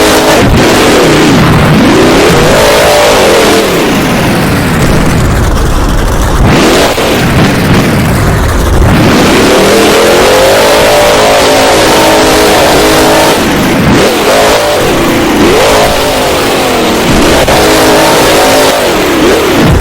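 Monster truck's supercharged V8 revving hard over and over, its pitch climbing and falling every second or two with short drops in between. Very loud throughout.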